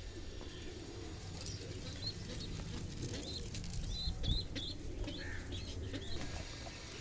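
Fantail pigeons' wings flapping, with short high bird chirps repeating through.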